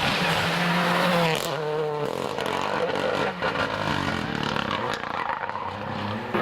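Rally car engine at high revs on a special stage, loudest in the first second and a half, then changing pitch and fading as the car drives on.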